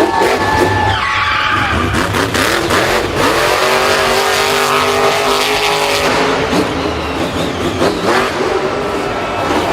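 Vehicle engines running and revving, with tyres skidding and squealing. A steadier engine tone holds through the middle of the stretch.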